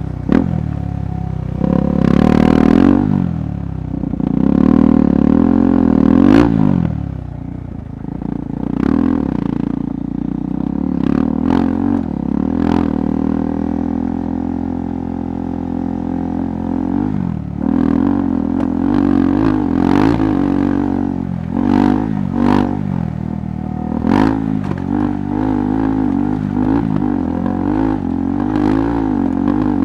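KTM 390 Adventure's single-cylinder engine pulling at low speed, its pitch rising and falling with the throttle several times early on and then holding steadier. Sharp knocks and clatter come through repeatedly as the bike rides over rough ground.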